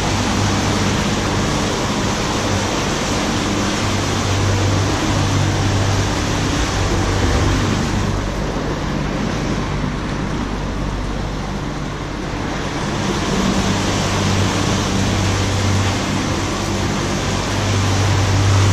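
Boat motor running under way, a steady low engine hum under a rush of wind and water noise. The hum eases off around the middle and comes back strong near the end.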